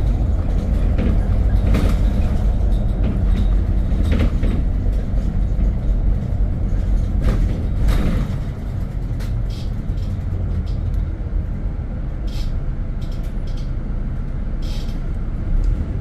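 Steady low rumble of a moving road vehicle, with a few brief knocks and clicks; slightly quieter from about halfway through.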